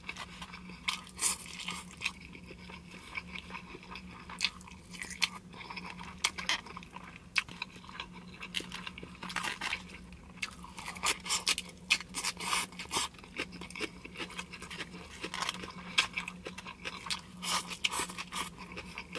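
Close-up eating sounds: irregular crisp crunches and wet mouth clicks of chewing lettuce and carrot salad with grilled meat and rice, over a steady low hum.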